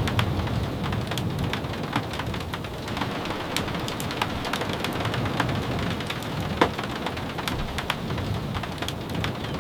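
Steady rain with a low rumble underneath, dotted with scattered sharp pops and taps.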